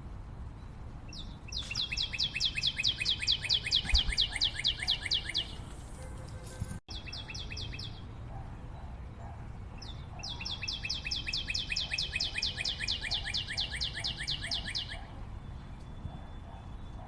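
A bird calling in two long, rapid series of sharp, evenly repeated high notes, about six a second, each series lasting four to five seconds, with fainter lower calls in the background.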